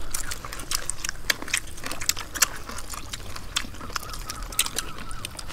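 Close eating sounds: people chewing and biting grilled crocodile meat by hand, with many irregular wet mouth clicks and smacks.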